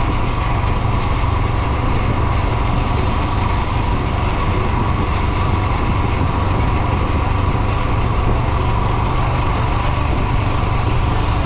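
Royal Enfield Himalayan 411's single-cylinder engine running steadily under way, with a low, even rumble of engine and road noise.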